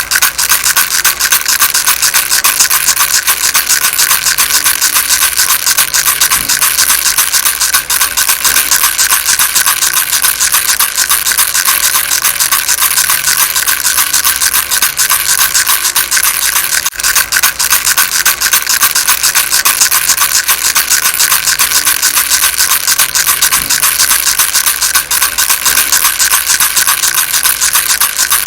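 Baby rattle shaken continuously, a fast, dense, steady rattling with no pauses.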